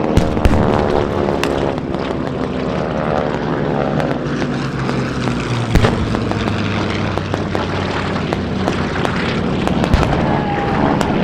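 Piston-engined propeller warplanes flying low past, the engine note shifting in pitch as they go by, with sharp pyrotechnic bangs and pops through it, the loudest about half a second in, near six seconds and near ten seconds.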